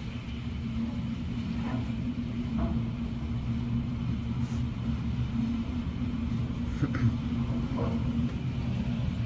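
Hurricane-force wind and rain heard from inside a building through a closed window: a steady low rumble with no break.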